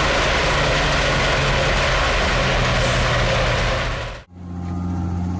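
Tractor PTO-driven wood chipper running, a dense rushing noise over the tractor's engine hum. It cuts off abruptly about four seconds in, giving way to a heavy diesel engine running at a steady pitch.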